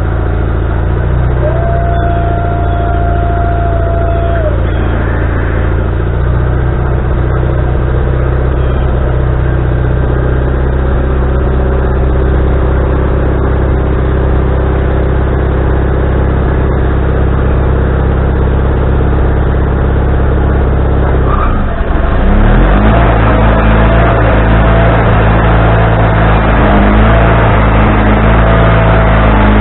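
Wood-Mizer LT40HD sawmill running steadily under power. About 22 seconds in, the engine note dips briefly, then the sound turns louder and harsher.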